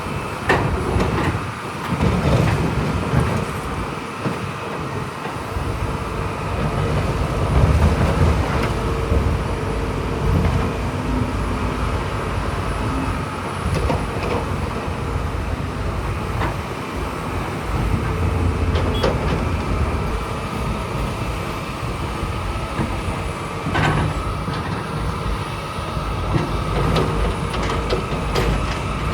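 Heavy diesel earthmoving machinery working: a deep engine note that swells and eases with load, with scattered metallic clanks and knocks.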